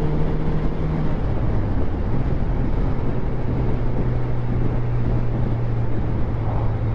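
Motorcycle engine running under way, with wind rushing over the microphone. About a second in, the engine note steps down to a lower pitch, then holds steady.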